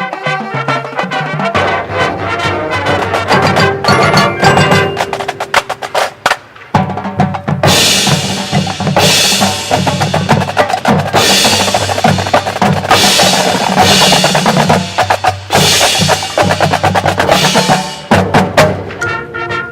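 Marching band percussion section playing: snare and drum rolls and hits over mallet percussion and held low notes, with several long cymbal crashes from about eight seconds in.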